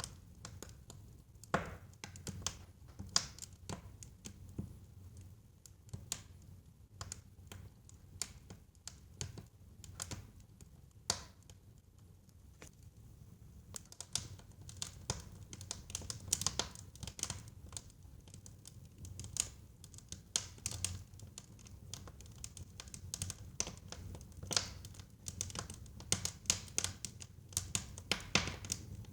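Wood burning in a fireplace, crackling with irregular sharp pops and snaps over a low, steady rumble. The pops come thicker in the second half.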